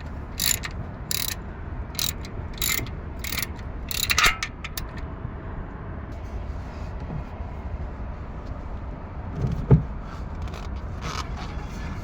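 Socket ratchet clicking in short strokes, about one stroke every 0.7 seconds, working the 15 mm oil drain plug. The clicking stops about five seconds in, and a single dull thump follows near the end.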